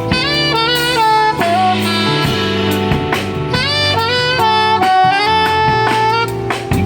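Live jazz band with a saxophone playing a melodic line of sliding, bending notes over bass and drums.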